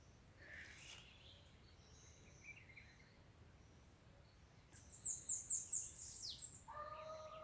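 Wild birds calling: a quick run of about five high chirps ending in a falling note about five seconds in, with fainter chirps earlier. Near the end comes a steady, held lower tone lasting about a second.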